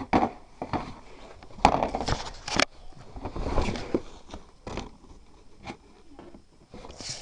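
Irregular scrapes, rustles and knocks of small objects being handled and moved, with the loudest bursts about two seconds in.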